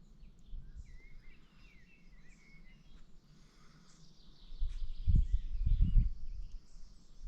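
Small songbirds chirping and twittering, with quick rising and falling notes in the first half and higher chirps throughout. A low rumble, the loudest sound, comes in about five seconds in and lasts a second and a half.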